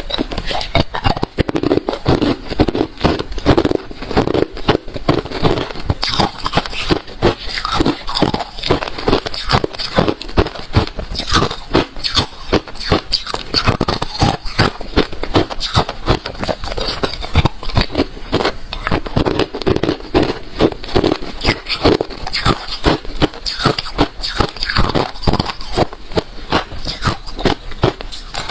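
Close-miked crunching of refrozen crushed ice being chewed: a dense, irregular run of loud crackling bites, several a second, without a pause.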